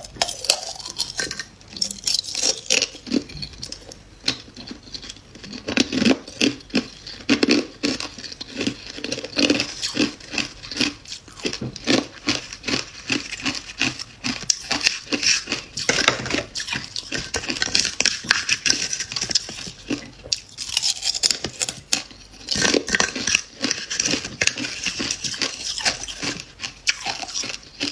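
Freezer frost being bitten and chewed up close, a dense run of crisp crunching and crackling with a few short pauses.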